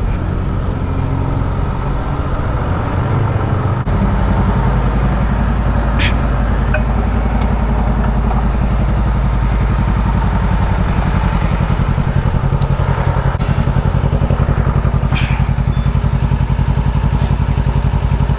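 Motorcycle engine idling steadily, settling into an even low hum about four seconds in, with a few brief sharp clicks over it.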